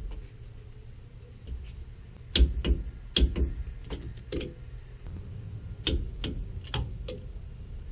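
Sharp metallic clicks from a torque wrench ratcheting on the Toyota Tacoma's rear axle retainer nuts as they are tightened to 33 foot-pounds. The clicks come in irregular runs a few tenths of a second apart, starting a couple of seconds in.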